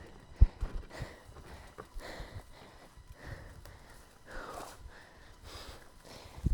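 A person breathing hard in noisy puffs, about one a second, with low thumps; a sharp thump about half a second in is the loudest sound.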